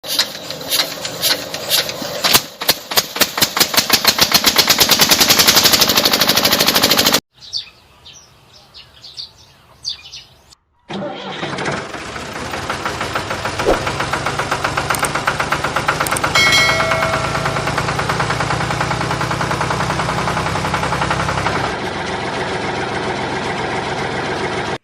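Miniature diesel engine running with fast, even firing pulses. It stops abruptly about seven seconds in, leaving a few scattered knocks and a short silence, then runs steadily again.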